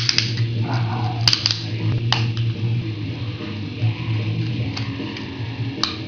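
Hard plastic parts of a Great Lio DX robot toy clicking and snapping as it is handled and transformed. There are a few sharp clicks, clustered at the start and around one to two seconds in, with another near the end, over a steady low hum.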